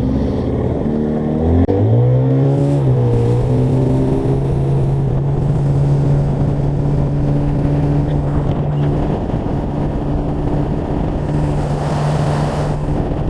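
Boat outboard motor throttled up, its pitch rising quickly over the first two seconds, then running steadily at speed.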